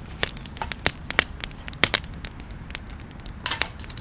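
Wood campfire crackling, with sharp irregular pops several times a second and a brief hiss near the end.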